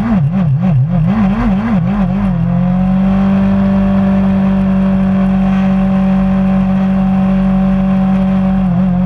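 Racing motorcycle engine revved in quick blips, about four a second. It is then held at steady high revs and eases down slightly near the end.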